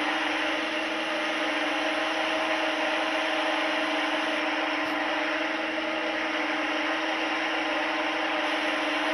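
Steady mechanical whir with a constant low hum, unchanging throughout, with a faint tick about five seconds in.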